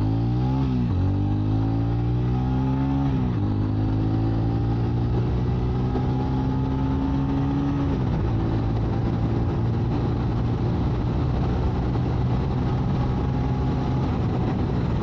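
TVS Ronin 225's single-cylinder engine accelerating hard. Its pitch climbs through each gear and drops at the upshifts about one, three and eight seconds in, then rises slowly again in the higher gear.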